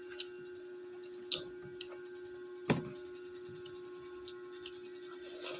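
Close-up eating sounds: wet chewing and mouth clicks, with one louder knock a little under three seconds in. A steady hum runs underneath.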